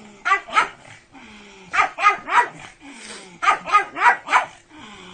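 Pug barking in quick bursts of short barks: two, then three, then four in a row, with brief pauses between the bursts.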